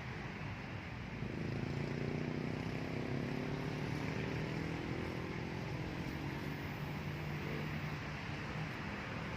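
A motor vehicle's engine passes by, its pitch rising slowly, over a steady outdoor background hiss. It comes in about a second in and fades near the end.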